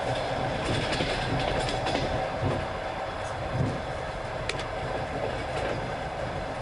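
Passenger train carriage running at speed, heard from inside the coach: a steady rumble and rail noise of the wheels on the track, with a few sharp clicks, one about four and a half seconds in.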